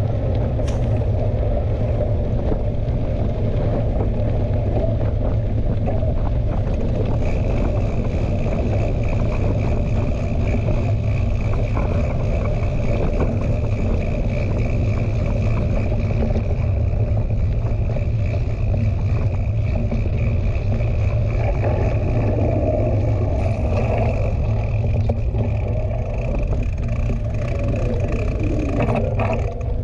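Wind buffeting a GoPro's microphone while mountain biking, a steady low rumble mixed with the noise of the ride. A thin steady high tone joins in about seven seconds in and holds until just before the end.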